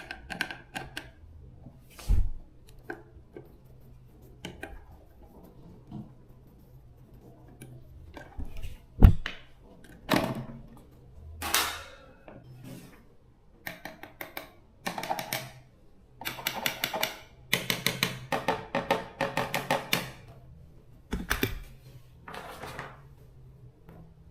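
Workshop handling of a salvaged electric fan motor's metal parts: scattered clinks and knocks, one sharp loud knock about nine seconds in, and, in the second half, bursts of rapid clicking and rattling.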